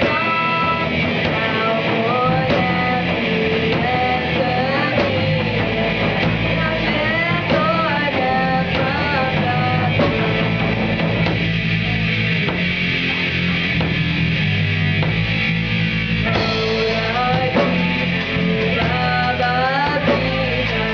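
Live rock band playing at a sound check, with electric guitar to the fore over steady bass, the music running on without a break.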